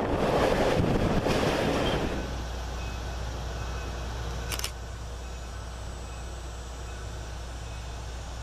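Rumble and rattle of a moving train heard from on board. After about two seconds it gives way to a quieter, steady low hum with hiss, with one brief high click about halfway through.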